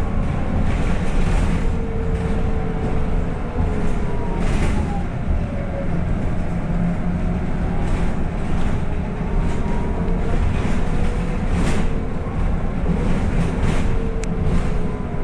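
City bus cabin while driving: a steady low rumble of drivetrain and road, with a whine that slowly rises and falls in pitch and a few short rattles.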